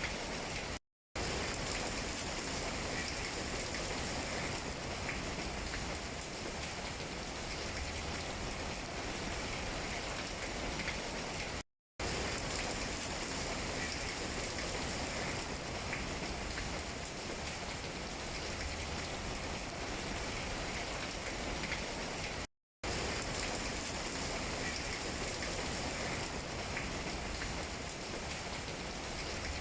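Steady rain falling on tree leaves, a constant hiss with scattered light drop taps. It cuts to silence for a split second three times, about every eleven seconds.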